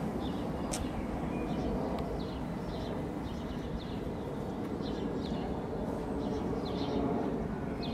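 Small birds chirping about once a second over a steady low rumble.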